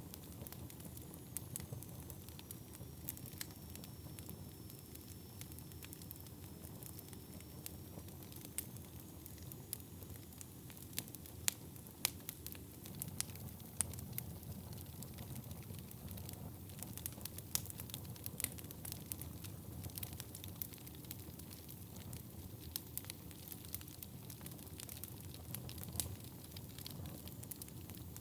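Wood fire burning in a fireplace: a steady low rumble of flames with frequent irregular sharp crackles and pops from the burning wood. A faint thin high whistle runs through roughly the first ten seconds.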